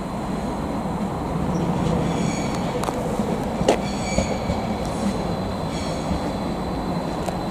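A train rolling through a station with a steady low rumble, its wheels squealing on and off in high tones, and a couple of sharp clicks about halfway through.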